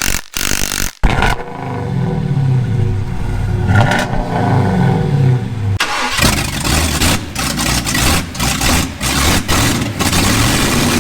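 A truck engine cranks and catches about a second in, then revs up and down several times. About six seconds in, rock music with distorted electric guitar takes over.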